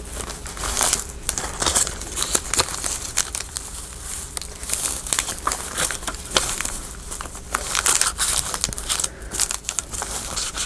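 Paper scraps rustling and crinkling as they are handled and shuffled, a steady run of small irregular crackles.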